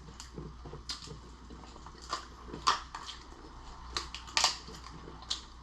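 Cooked lobster shell being cracked and pulled apart by hand: a string of sharp cracks and clicks, the loudest about halfway through and again near the end.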